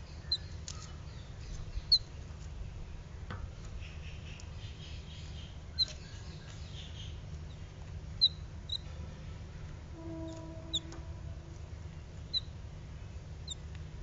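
A bird giving short, high-pitched chirps, about eight of them at irregular intervals of one to four seconds, over a steady low background hum.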